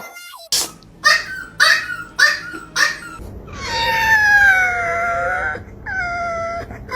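A dog vocalizing: five short yips about two a second, then a long howl that dips and rises in pitch, and a shorter howl near the end.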